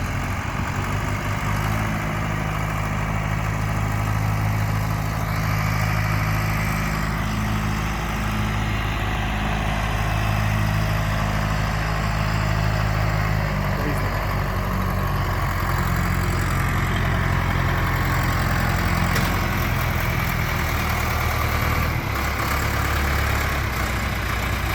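A John Deere 2640 tractor's diesel engine running steadily at low speed, with a slight change in its note about halfway through and again near the end.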